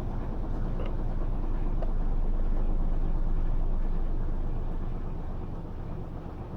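Electrolux LT13B top-load washing machine in its final spin: a steady low motor-and-drum hum that swells over the first few seconds and eases off near the end.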